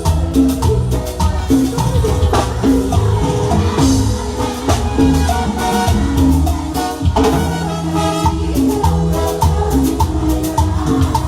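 Live Latin dance band playing a steady, upbeat groove, with bass, percussion and keyboard or brass melody.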